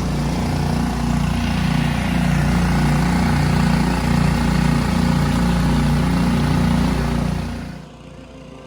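Small gasoline engine of a water pump running steadily, its low note wavering rhythmically; the sound drops away sharply near the end.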